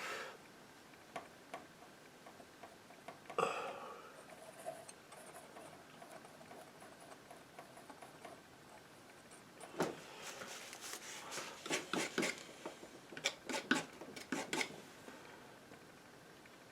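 Painting knife working paint: a faint tap early on, then two runs of short, quick scraping strokes in the second half.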